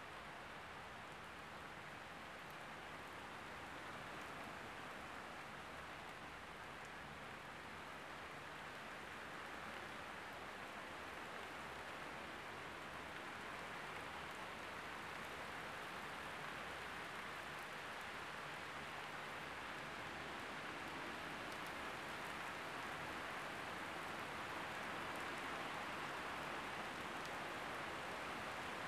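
Thunderstorm rain falling steadily, slowly growing louder.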